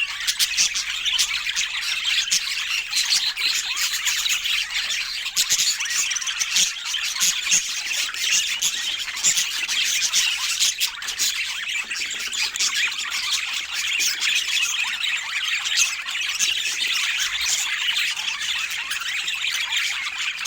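Budgerigars chattering: a dense, unbroken stream of short high chirps and calls.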